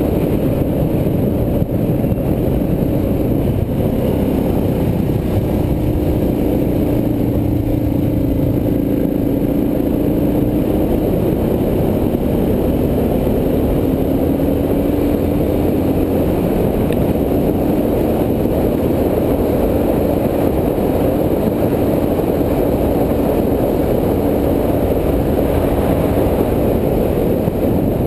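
Suzuki DR650 single-cylinder four-stroke engine running at a steady cruise on a gravel road, its note drifting slightly up and down with the throttle, under a constant rush of wind and tyre noise.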